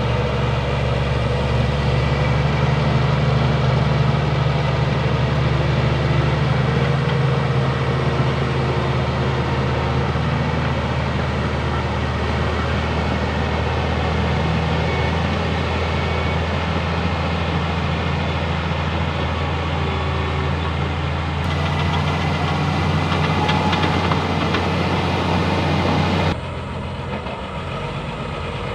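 Bulldozer's diesel engine running with a steady low drone. About three quarters of the way in a metallic clatter joins it, and shortly after, the sound drops suddenly to a quieter engine running.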